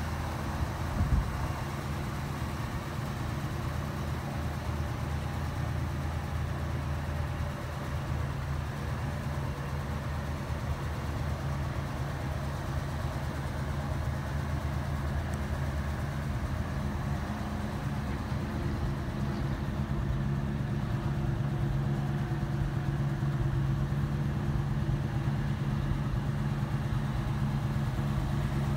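1968 Ford Mustang's engine idling steadily, with a short knock about a second in.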